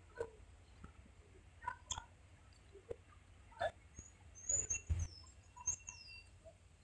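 Faint, sparse bird chirps, with a few short high calls falling in pitch about four to six seconds in, over a low background rumble and a few scattered faint clicks.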